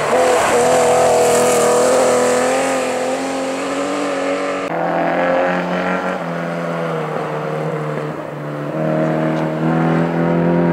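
Historic rally car engines running at high revs as they drive the stage: a sustained engine note with small pitch wobbles, an abrupt change about halfway through, then another car's engine rising and getting louder near the end.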